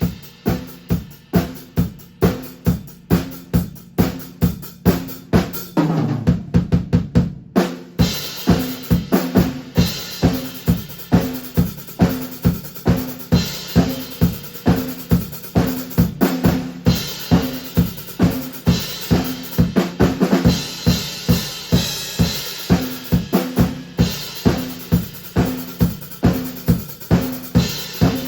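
Acoustic drum kit played solo: a steady groove of bass drum and snare at about two beats a second. A fast fill runs about six to seven seconds in and leads into a cymbal crash, with more crashes every few seconds after.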